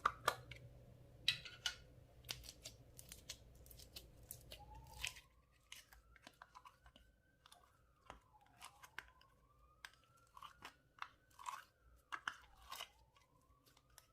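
Clear slime being squished and worked by hand: irregular sticky clicks and crackling pops.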